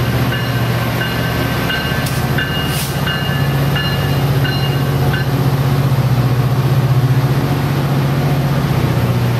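Amtrak passenger train pulling into the station, a steady low rumble of the rolling train, with short high-pitched squeals repeating through the first five seconds or so.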